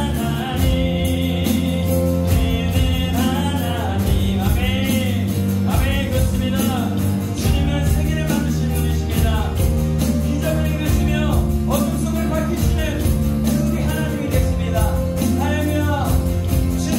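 Live worship band of acoustic guitar, keyboard, bass guitar and electronic drums playing a song under a steady drum beat, with a voice singing the melody.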